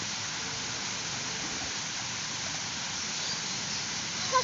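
Steady rushing noise of running water, with a short call falling in pitch at the very end.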